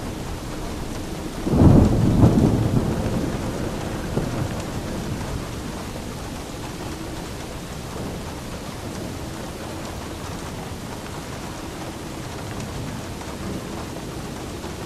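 Steady rain with a clap of thunder about a second and a half in, its low rumble fading away over the following few seconds.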